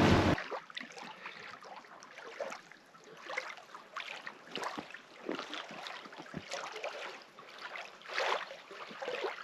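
Small waves lapping and splashing irregularly against the shore, with a couple of slightly stronger splashes near the end.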